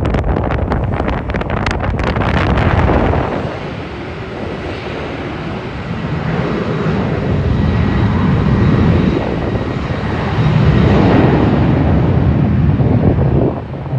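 Jet airliner engines rumbling as the plane passes, with a faint high whine over the rumble; it grows louder from about ten seconds in and drops away suddenly near the end. Wind buffets the microphone in the first few seconds.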